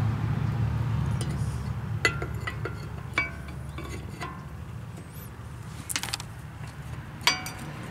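Light metallic clinks and taps, several with a short ring, as steel brake pads and caliper parts are handled while being greased. A low steady rumble runs under them and fades over the first few seconds.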